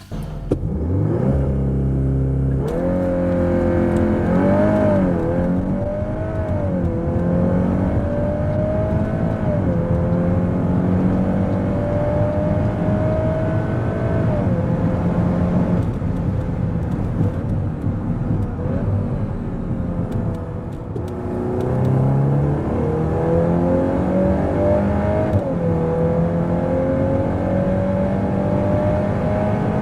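Volkswagen Golf 8 R's turbocharged 2.0-litre four-cylinder under full-throttle acceleration, its pitch climbing through each gear and dropping quickly at every upshift. About twenty seconds in it eases off, then pulls hard again through another upshift.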